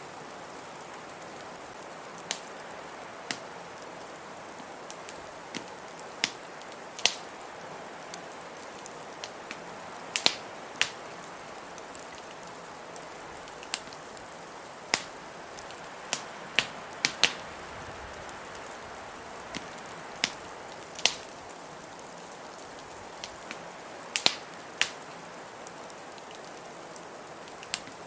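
Wood fire in a fireplace crackling, with sharp pops at irregular intervals over a steady, even hiss.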